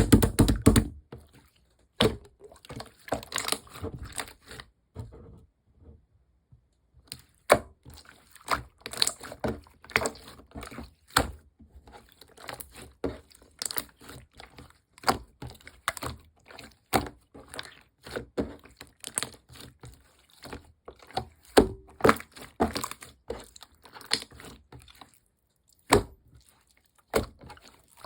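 Hands squishing, pressing and stretching slime, making irregular sticky pops, clicks and crackles. There is a brief pause about five seconds in.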